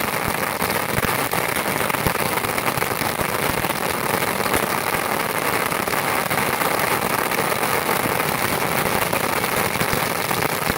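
Many bottle rockets firing off from a homemade launcher in rapid succession, making a steady, dense crackling hiss without a break.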